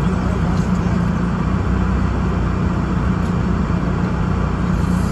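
Steady low hum of a car idling at a standstill, heard from inside the cabin.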